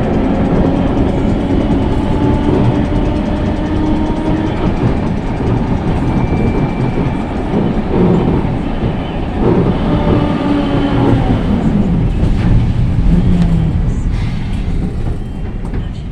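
2003 Fiat-Iveco tram running on rails: a steady wheel-on-rail rumble under a traction-motor whine that shifts in pitch, with the whine falling about ten to twelve seconds in as the tram slows.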